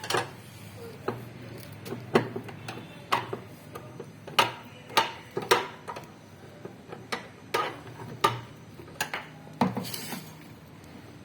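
Irregular metallic clicks and clinks of tools and metal parts being handled while working on a washing machine's clutch mechanism, about one to two sharp knocks a second.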